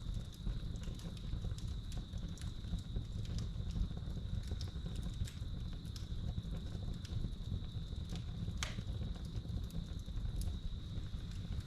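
Wood fire crackling, with irregular small pops and one louder pop about two-thirds of the way through, over a low rumble. Crickets trill steadily throughout.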